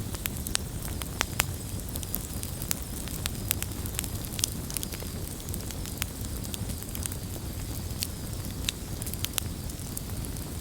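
Wood campfire burning with a steady low rumble and frequent sharp, irregular crackles and pops.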